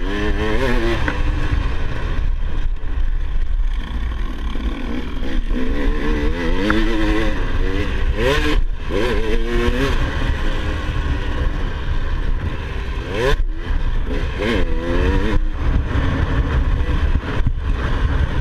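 Motocross bike engine revving up and down again and again, its pitch rising and falling with the throttle and briefly cutting out twice, over a heavy low rumble.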